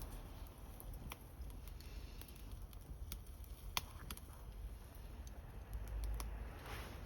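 Small wood fire crackling, with irregular sharp pops and snaps, the loudest about four seconds in.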